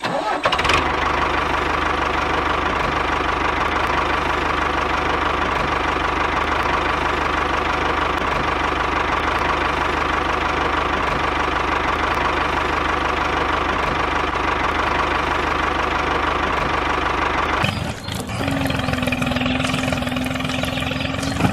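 Tractor engine running steadily as a miniature model tractor drives its sand-loaded trailer; about 18 seconds in the running note changes, with a brief dip in level.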